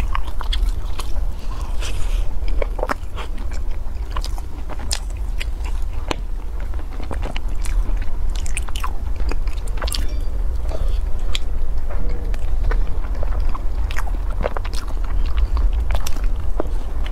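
Close-up biting and chewing of an omelette-wrapped sandwich with ham and greens: irregular crisp crunches and wet mouth clicks. A steady low hum runs underneath.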